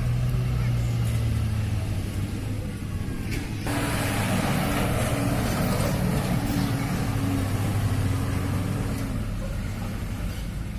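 A heavy truck's engine runs steadily with a low hum. About four seconds in, a broad rushing noise comes in suddenly and then slowly fades, over the engine note.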